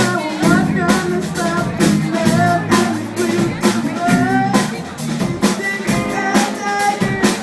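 Rock band playing live: drum kit keeping a steady beat under electric guitar, with a voice singing the melody.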